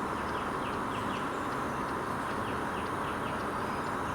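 Tropical forest ambience: a steady insect drone with short chirping calls repeating two or three times a second.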